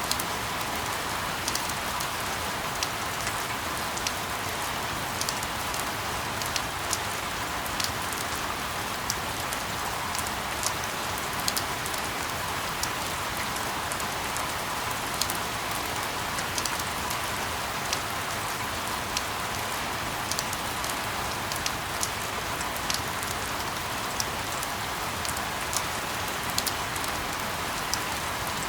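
Steady rain with a constant hiss and many small, irregular drop ticks landing on a surface.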